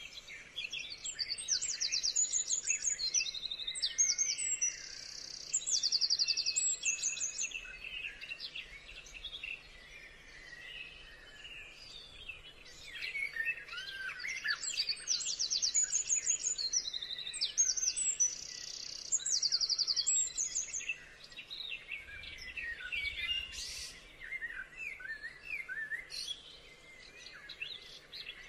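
Several birds singing and calling at once, fast high trills coming in runs among varied chirps and whistles.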